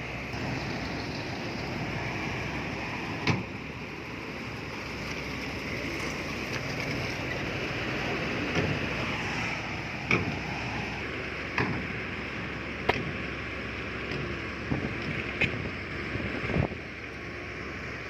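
Bulldozer's diesel engine running steadily under load, with sharp metallic knocks and clanks every second or two as it works through stone and dirt.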